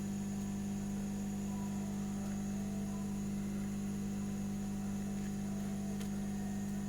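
Steady electrical hum: a low tone with a set of higher tones above it, holding the same level throughout.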